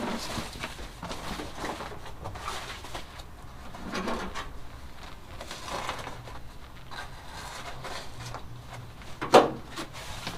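Sound-deadening sheet being worked into place on a truck cab's floor tunnel: irregular rubbing and rustling as it is pressed and shifted, with one sharp knock about nine seconds in.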